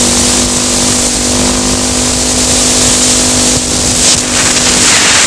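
Honda XR650L's air-cooled single-cylinder four-stroke engine running steadily at cruising speed, with wind noise on the microphone.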